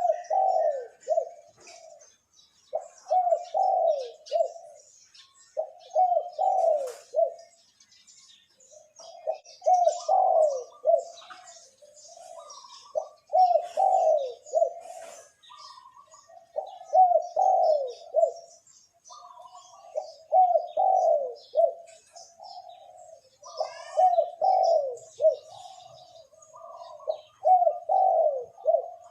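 Male spotted dove giving its cooing call: about nine phrases of several low, falling coos, one roughly every three seconds. Other small birds chirp faintly in the background.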